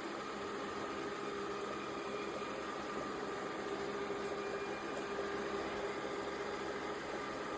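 Yeedi M12 PRO+ robot vacuum running with a steady motor hum and airflow noise.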